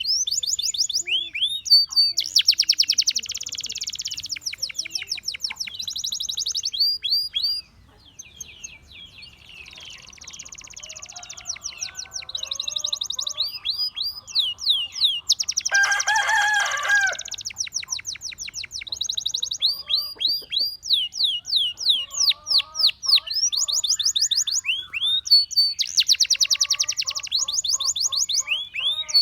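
Gloster canary singing: long phrases of rapid, repeated down-slurred whistles alternating with fast buzzing trills, with a short lull about eight seconds in. Around the middle comes a louder, lower, rich-toned burst.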